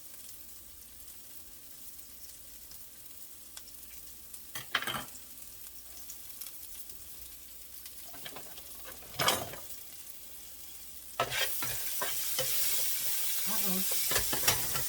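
Onions and peppers frying in a pan: a faint sizzle with a few utensil knocks. About eleven seconds in, the sizzling suddenly gets much louder and carries on as a steady hiss.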